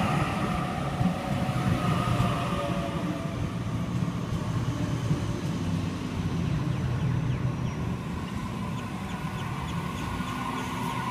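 Waratah A-set electric passenger train departing the platform and rolling past at low speed. It runs with a steady low rumble and a whine that falls in pitch early on and rises again near the end, with a run of light, evenly spaced ticks in the second half.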